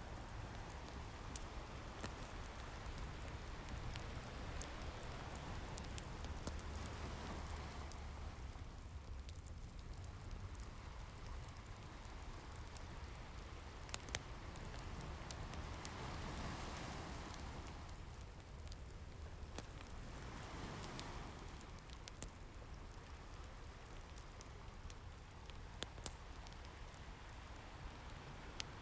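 Ocean waves washing in and receding, swelling and fading every several seconds, with a wood fire crackling over them in scattered sharp pops.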